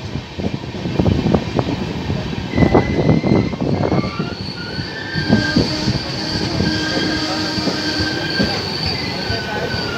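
Train wheels running over the rails heard from on board, with a rapid clatter in the first few seconds; a high, steady wheel squeal sets in a few seconds in and carries on as the train rounds a curve.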